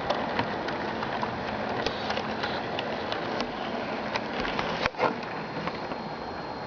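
HO-scale model train rolling along the track: a steady running noise with irregular sharp clicks of wheels over rail joints, a brief dip and then a louder click about five seconds in.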